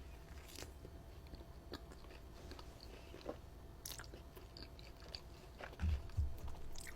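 Close-miked chewing and biting of an Olive Garden breadstick: soft crunches and small mouth clicks, with a few louder low thumps about six seconds in.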